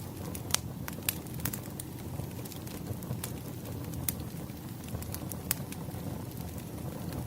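Wood fire burning: a steady low rush of flames with sharp, irregular crackles and pops from the burning logs, the loudest pops about half a second, a second and five and a half seconds in.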